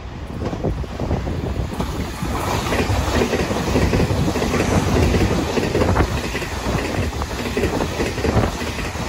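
A Taiwan Railway train passing with a noisy rumble that swells from about two seconds in and eases near the end, mixed with heavy wind buffeting the microphone.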